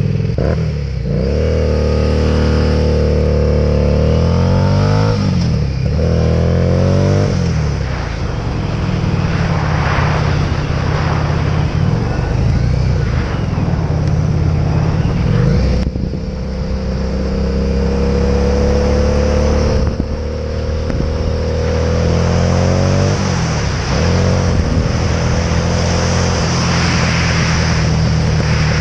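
Motorcycle engine running under way, its revs climbing and then dropping sharply as it shifts up, about five and seven seconds in and again around twenty-three and twenty-four seconds in.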